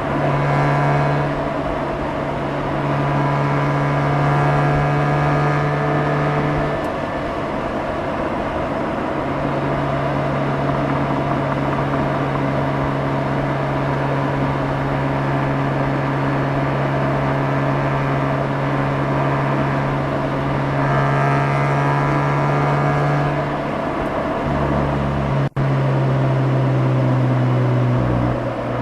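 Mazda RX-8's two-rotor rotary engine heard through its exhaust while driving, its note rising in pitch as it accelerates a few times and holding steady at cruise between. The sound cuts out for an instant about 25 seconds in.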